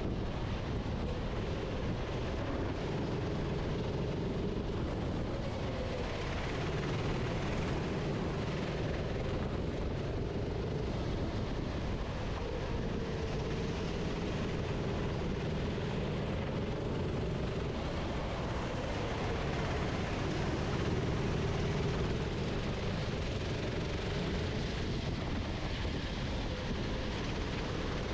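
Onboard sound of a racing kart's engine running, its pitch rising and falling every few seconds as it accelerates out of and slows into corners.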